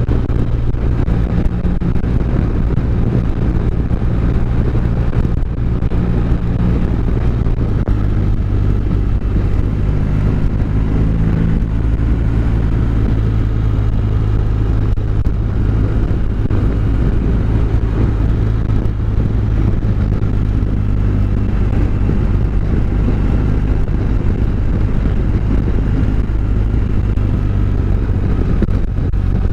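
Motorcycle engine running steadily at road speed, mixed with wind and road noise. The engine note shifts to a new pitch about a quarter of the way in and a few times after.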